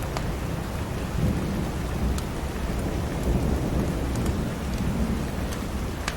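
Steady rain with a low rumble underneath and a few sharp crackles and pops from a wood fire in a fireplace.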